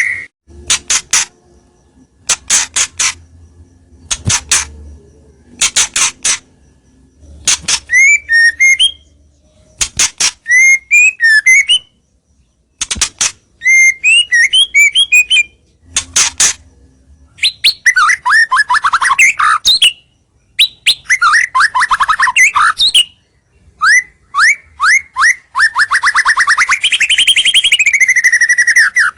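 White-rumped shama (murai batu) singing loudly in bursts separated by short pauses, mixing harsh rattling chatter, clear rising whistles and long rapid trills toward the end. A lure song meant to draw rival shamas close.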